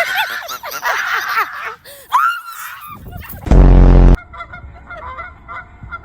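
Honking animal calls, several in quick succession, then a very loud, harsh buzz lasting under a second about three and a half seconds in.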